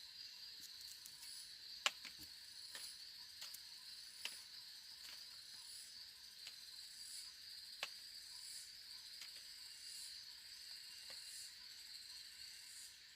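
Faint, steady high-pitched chirring of insects such as crickets, with a few sharp clicks about two, four and eight seconds in, the first the loudest.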